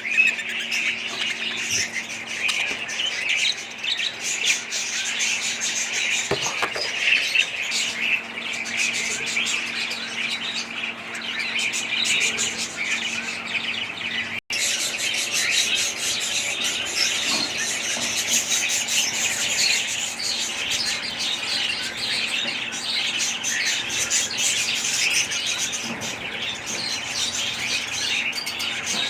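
A flock of budgerigars chirping and chattering all at once in a dense, continuous twitter. It breaks off for an instant about halfway through.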